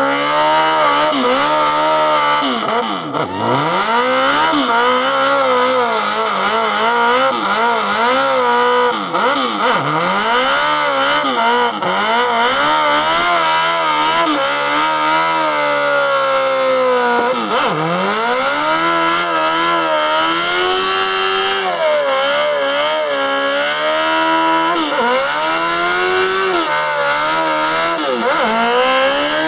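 Motorcycle engine revving hard through a burnout, its revs swinging up and down and dropping sharply several times before climbing again.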